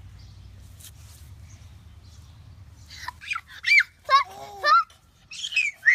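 A bird calling: a quick run of short, high calls that starts about halfway through, over a low steady hum.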